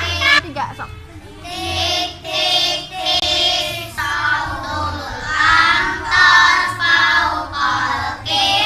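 A group of young children singing together in Arabic, a simple children's song sung in unison in phrases of a second or so.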